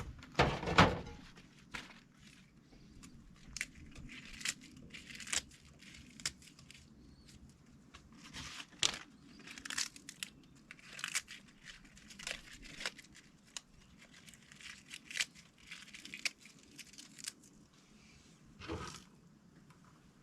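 Scattered small clicks, rustles and light knocks of objects being handled, with a louder knock just under a second in and another near the end.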